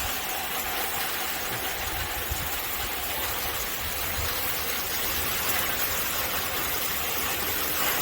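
Heavy rain pouring down steadily, an even hiss with a low rumble underneath.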